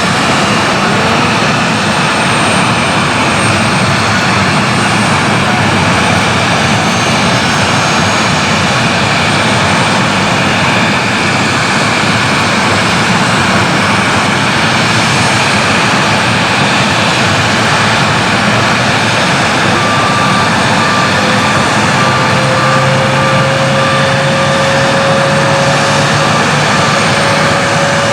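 Airliner engines running loud and steady close by, with a whine that slowly rises in pitch over the last several seconds.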